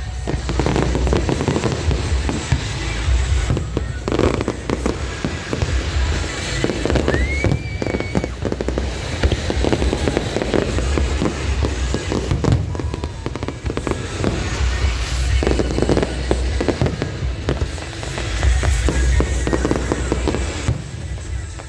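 Aerial fireworks display: a dense run of shell bursts with deep booms and crackling, over music. A short rising whistle about seven seconds in.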